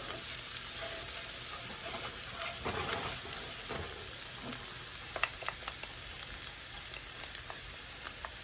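Diced shallots sautéing in melted butter in a skillet, sizzling steadily, with a few light clicks of a utensil in the pan about halfway through.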